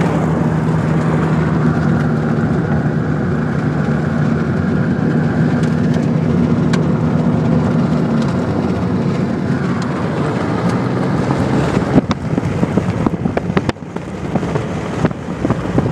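A car being driven hard, heard from inside the cabin: a steady engine and road drone with a low hum. About three-quarters of the way through, it gives way to uneven, gusty noise with sharp clicks and knocks.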